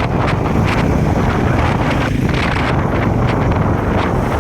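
Wind buffeting the microphone of a rider on a moving motorcycle, with the bike's engine rumbling underneath.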